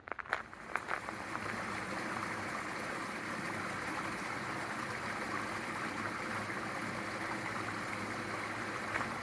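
Running water, a steady rushing that comes up within the first second and holds level.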